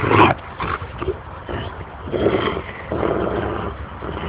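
Rottweiler growling in play: a short loud burst right at the start, then two longer rough growls about two and three seconds in.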